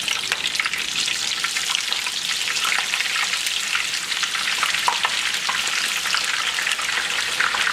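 Sliced red onion frying in hot palm oil in a skillet: a steady sizzle full of fine crackles.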